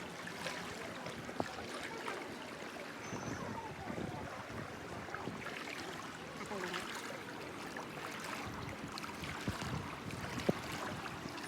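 Floodwater sloshing and splashing, with a few sharp knocks and faint voices in the background.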